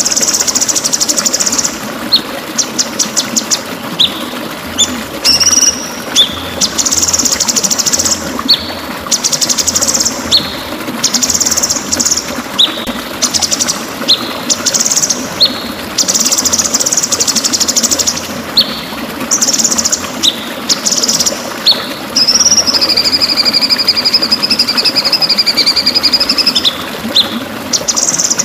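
White-rumped shama (murai batu) singing: bursts of rapid, high buzzy trills about a second long, broken by short sharp whistled notes, with one long wavering whistle in the second half.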